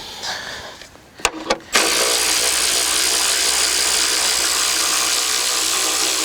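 Cordless power tool spinning out a 10 mm bolt: two short trigger blips, then a steady run from about two seconds in.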